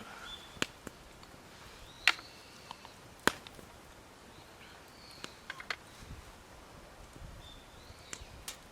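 Wood in a campfire popping and cracking, a few sharp separate cracks with smaller ticks between them, while birds chirp faintly.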